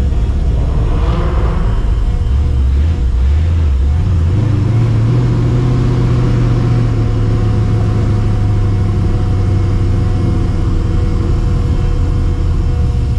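Cammed, Procharger-supercharged V8 of a 1999 Mustang GT driving, its exhaust note climbing in the first few seconds and then holding a steady drone while cruising.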